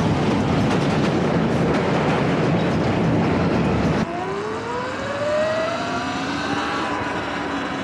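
Loud, steady rushing noise for about four seconds, then, after an abrupt cut, an electric bike motor whining as it speeds up, rising steadily in pitch over about three seconds.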